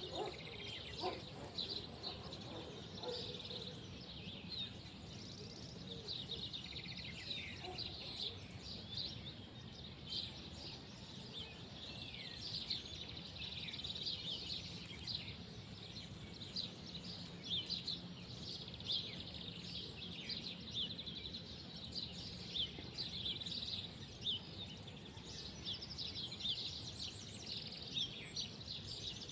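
Small birds chirping outdoors: a steady scatter of short, quick high-pitched calls over a constant low background hum.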